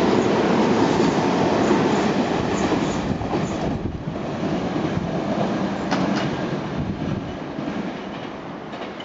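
Tobu 50070 series electric train passing through a station at speed: loud wheel-and-rail noise from the cars running past, with a few clacks over rail joints, then fading steadily as the train recedes.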